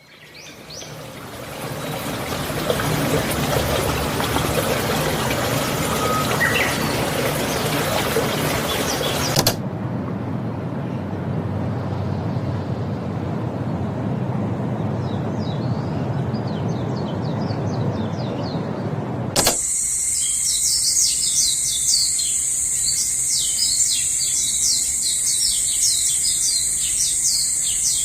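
Ambience sound effects in three abruptly cut sections. A broad noise fades in at the start; about nine seconds in it gives way to a lower rumbling noise with faint bird chirps. From about nineteen seconds, rapid bird chirping runs over steady high-pitched tones.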